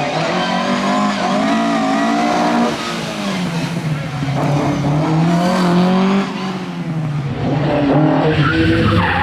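Rally car engine revving hard with its pitch rising and falling as the driver works the throttle and changes gear, with tyres squealing and skidding on the stage.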